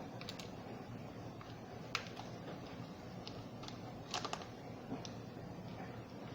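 Faint, scattered clicks and taps of a small Phillips screwdriver being worked on screws in a Roomba's plastic underside, with a small cluster of clicks a little past the middle.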